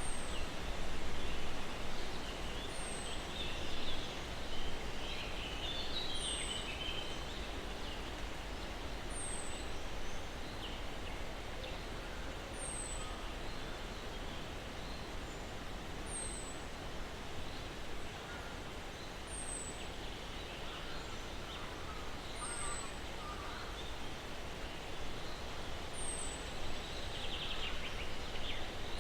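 Steady breeze hissing through pine trees with a low rumble underneath. A short, high, falling chirp repeats about every three seconds, and scattered bird chirps come in the first few seconds and again near the end.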